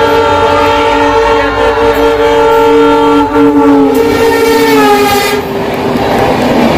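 Diesel or electric locomotive horn sounding one long blast as a train approaches at high speed, its pitch dropping as the locomotive passes about five seconds in. The horn then gives way to the rushing noise of the passenger coaches racing by.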